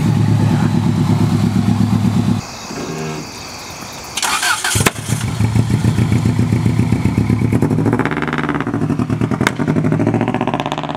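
Subaru Legacy rally car's flat-four engine running at idle with an uneven, pulsing exhaust note. It drops quieter about two seconds in, and there is a brief loud rushing noise about four seconds in before the engine note returns.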